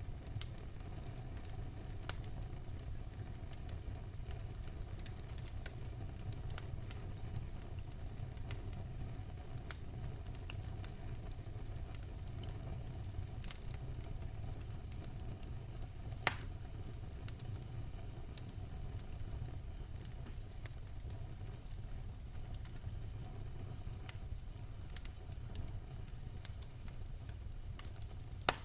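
Wood fire burning in a fireplace: a steady low rumble with scattered sharp crackles from the logs, and a few louder pops, the loudest about halfway through.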